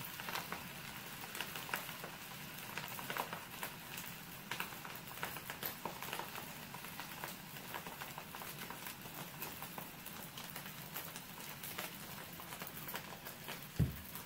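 Fried rice crackling and sizzling in a wok over a gas flame, a steady patter of small crackles, with a metal spatula in the rice. A single low thump near the end.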